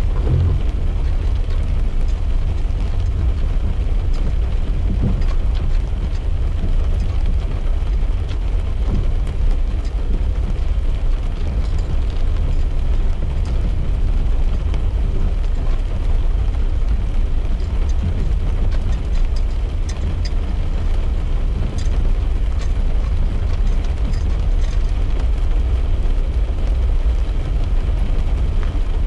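Steady low road-and-engine rumble of a car driving, heard from inside the cabin, with scattered faint ticks of rain on the glass.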